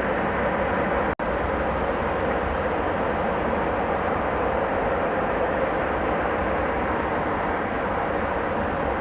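Airliner engines running with a steady roar, heard outdoors at an airport. A brief dropout about a second in cuts the sound for an instant.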